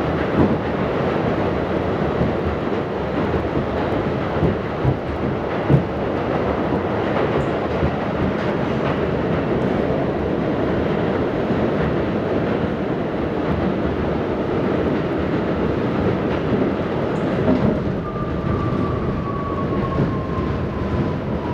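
An R68 subway train running on the rails, heard aboard: a steady rumble with a few sharp clanks in the first several seconds. Near the end a thin whine comes in and slowly falls in pitch.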